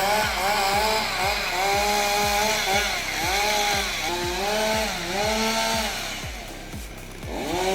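Chainsaw engine running under load, its pitch repeatedly dipping and rising again as it cuts. It eases off for a moment near the end, then revs back up.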